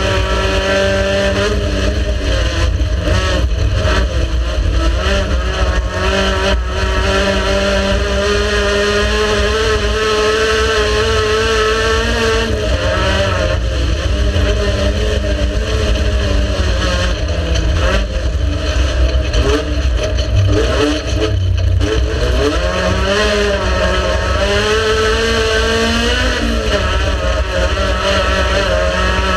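Race car engine running hard without a break, its pitch climbing and dropping repeatedly with throttle and gear changes.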